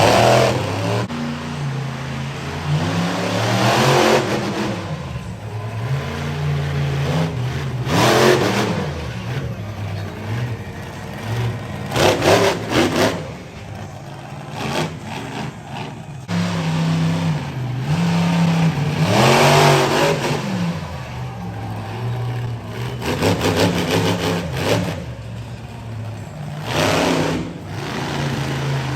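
Monster truck engine revving hard through a freestyle run, its pitch climbing and falling again and again, with loud full-throttle surges every few seconds.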